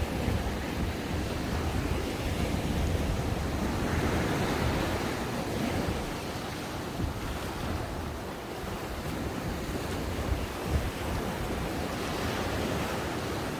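Ocean waves breaking and washing up the shore: a continuous surf wash that swells about four seconds in and again near the end, with a low rumble of wind buffeting the microphone.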